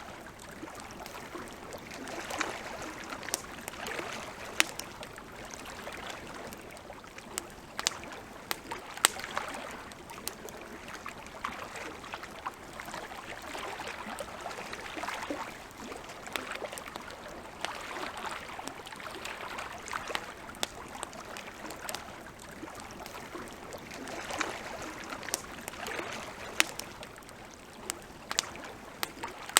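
Wood campfire crackling, with frequent sharp, irregular pops. Behind it a soft wash of lake water lapping swells and fades every couple of seconds.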